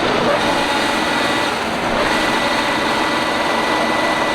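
Combine harvester running steadily.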